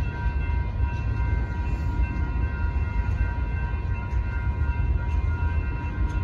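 Freight cars of a BNSF manifest train rolling steadily through a grade crossing: a continuous low rumble of steel wheels on rail. The crossing's warning bells ring over it as a steady set of high tones.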